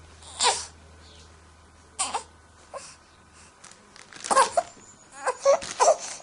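A baby crying: a few short, separate whimpering cries with pauses, then a quickening run of short sobbing cries over the last two seconds.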